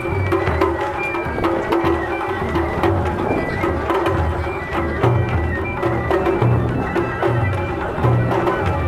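Japanese festival music (matsuri-bayashi): drums struck in a steady rhythm under a flute playing held notes.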